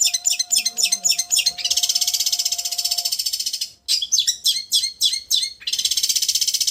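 Long-tailed shrike (cendet) singing: a run of quick, sharp, high chirps that breaks into a long, very fast trill, then after a short pause the same pattern again, quick notes leading into another long trill.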